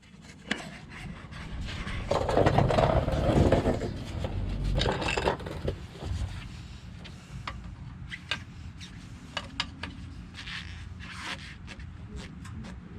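Scraping and shuffling for a couple of seconds, then scattered light clicks and knocks: handling noise while a pickup's front driveshaft U-joint is being checked for play.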